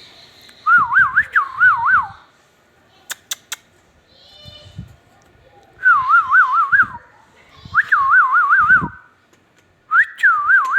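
Indian ringneck parrot whistling: four warbling phrases, each a run of quick up-and-down swoops, with a pause of a few seconds after the first and a couple of sharp clicks in that pause.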